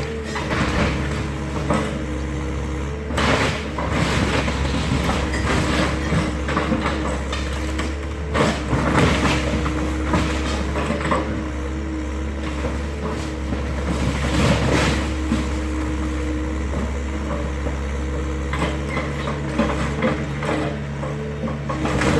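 Excavator engine running steadily under a string of crashes and cracks as the garage is torn down, the loudest about three seconds in, around eight to nine seconds and near fifteen seconds.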